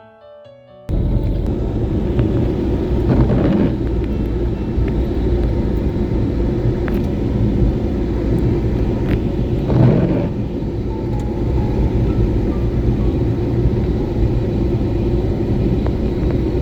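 A car driving along a road: steady low engine and tyre rumble, with a louder bump about three seconds in and again about ten seconds in. A piano music passage cuts off abruptly just before it.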